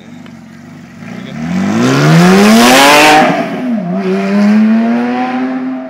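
2010 Porsche 911 GT3 RS's 3.8-litre flat-six accelerating hard past, its pitch rising steeply to a loud peak about two to three seconds in. The pitch dips once near four seconds, then climbs again as the car pulls away and fades.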